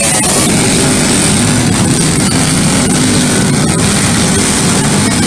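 Go-kart engine running at speed, loud and steady.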